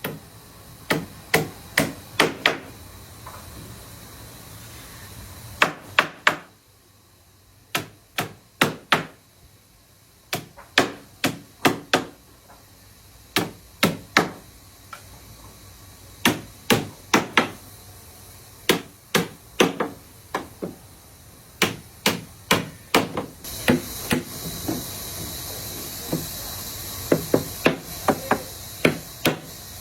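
Hammer blows on wood in quick runs of two to five strikes with short pauses between, in wooden boat building. A steady hiss joins about two-thirds of the way through.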